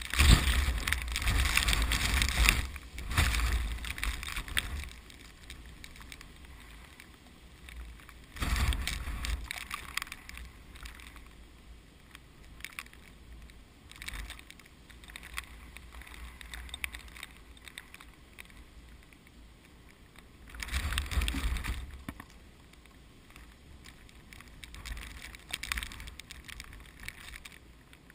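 Strong typhoon wind gusting and buffeting the microphone with a deep rumble. It is loud for the first few seconds, gusts again briefly about eight seconds in and about twenty-one seconds in, and eases to a lower steady rush between gusts.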